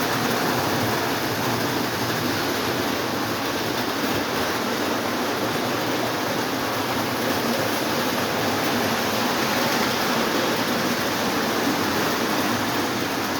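Several Lionel O27 electric toy trains running at once on three-rail track, giving a steady whirring rumble of motors and wheels.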